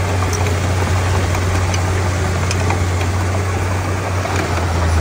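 Komatsu D31P bulldozer's diesel engine running steadily with a deep, even hum, with faint scattered ticks over it.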